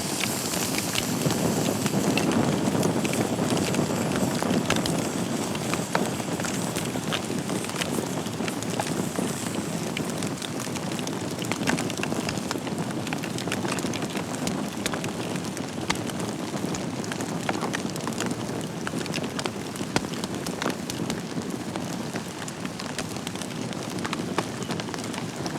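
Wood fire burning in a fireplace: a steady rush of flames with frequent sharp crackles and pops from the burning logs.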